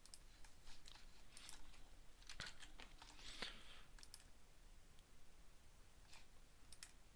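Faint, irregular clicks of a computer mouse and keyboard over a low steady room hum.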